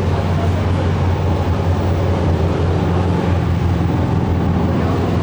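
Steady low drone of a passing ferry's engine, an even hum under a wash of broad harbour noise.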